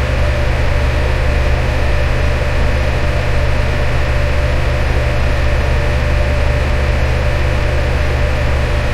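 Electric fan running steadily: a constant airy whoosh over a low rumble, with a faint steady hum.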